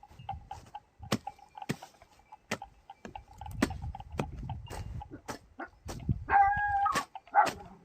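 Chickens clucking, with one louder drawn-out call about six seconds in, among a scatter of sharp clicks.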